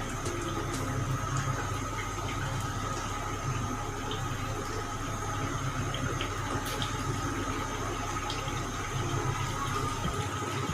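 Marinated chicken cooking in a pot of fried onions and spices, a steady sizzling and bubbling with a few faint ticks.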